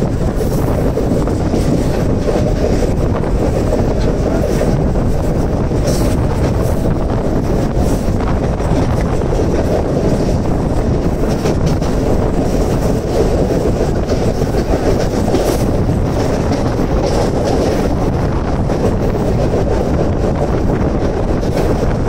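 Mumbai suburban electric local train running at speed, heard from an open doorway: a steady rumble of wheels on the rails with wind buffeting the microphone and a few sharp clicks.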